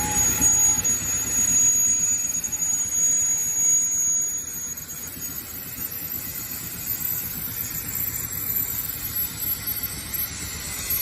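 Fibre cement board production-line machinery running with a steady mechanical noise. A thin high-pitched whine over it fades out about halfway through.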